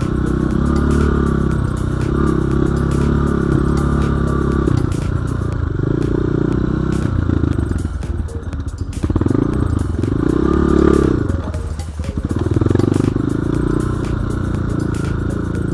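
Off-road enduro motorcycle engine running hard, the revs dropping and climbing again a few times in the second half, with a steady patter of knocks and rattles over it.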